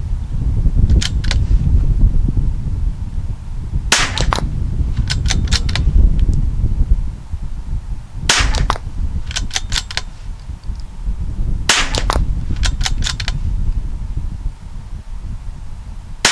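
.22 LR rifle shots fired one at a time, a few seconds apart, each followed within a second or so by a few fainter sharp cracks. A steady low rumble runs underneath.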